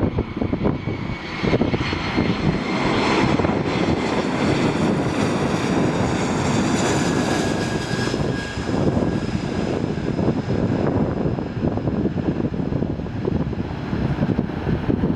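Jet engines of a Condor airliner on its landing approach: a steady rumble with a whine that swells about three to eight seconds in and then fades. Strong gusty wind rumbles on the microphone.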